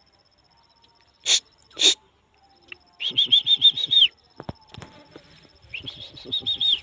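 Donkey calling: two short sharp sounds, then two runs of rapid pulsing calls, each about a second long, with about six pulses a second.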